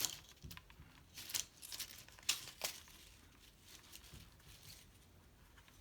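Dry leaves and paper crinkling and rustling as they are handled, with a few short light taps and clicks scattered through.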